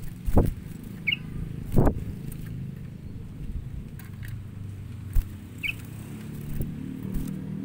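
Two brief high bird chirps, one about a second in and one near six seconds, over a steady low rumble. Two loud thumps come within the first two seconds, with a few fainter knocks later.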